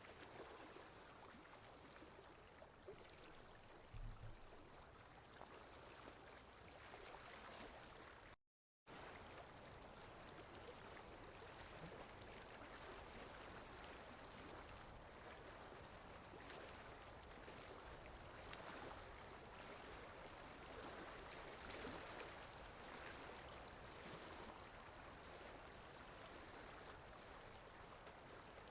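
Soft, steady rain falling, with fine drop ticks in an even hiss. The sound cuts out completely for about half a second some eight seconds in, and a faint low thump comes about four seconds in.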